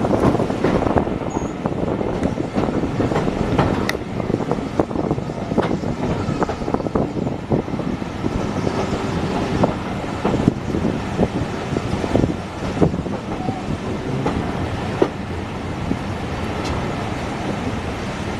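Heritage railway carriage running on the rails, heard from an open carriage window: a steady rumble with a string of wheel clicks over the rail joints, easing off near the end as the train slows into a station.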